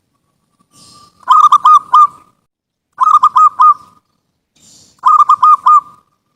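Zebra dove (perkutut) cooing: three short phrases, each a quick run of about four notes, a couple of seconds apart, the first and last led in by a soft note.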